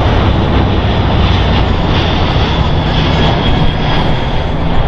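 A C-17 Globemaster III and a C-47 Skytrain flying past together in formation: loud, steady aircraft engine noise with a thin high whine in the middle.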